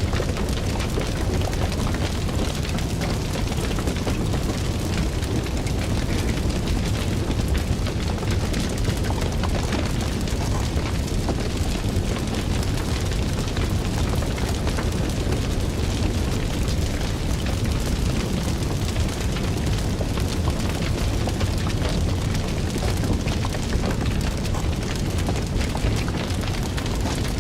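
Fire crackling: a steady low rumble of flames with many small pops and snaps throughout.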